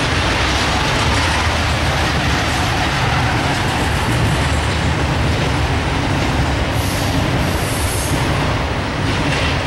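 Freight cars of an intermodal train loaded with trailers and containers rolling past close by: a steady rumble and rattle of steel wheels on the rails. Two short high hisses come about seven and eight seconds in.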